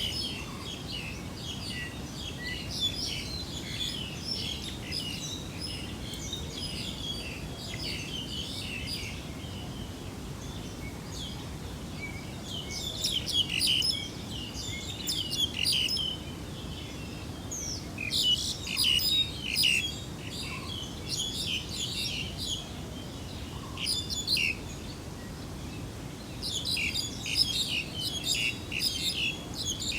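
Small birds chirping and twittering, in busier flurries a few times, over a steady low background noise.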